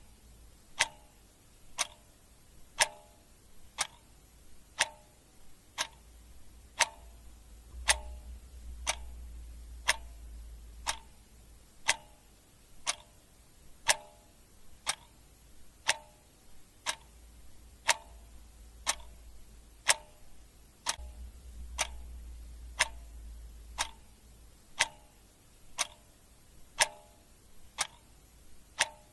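Clock ticking steadily at about one tick a second, each tick a sharp click, many with a short ringing note.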